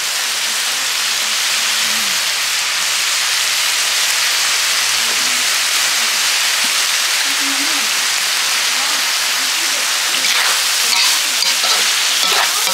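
Chopped pork innards sizzling in a hot pan as they are dry stir-fried, a steady hiss, with stirring strokes in the last few seconds.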